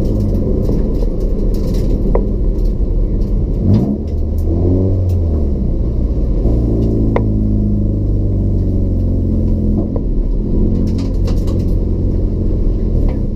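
Race-built Toyota Etios's 1.5-litre petrol engine with a free-flow exhaust, running hard. The revs drop sharply about four seconds in, then climb again, and the pitch shifts once more a few seconds later.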